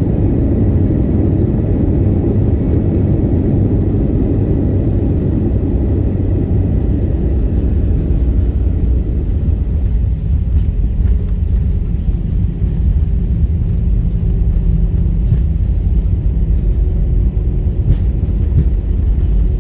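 Airliner cabin noise during the landing roll: a loud, steady low rumble, with the higher hiss above it fading away from about eight seconds in.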